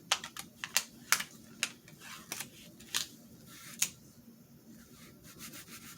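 Scissors cutting a paper cutout: a run of sharp, irregular snips in the first four seconds, then soft paper rustling.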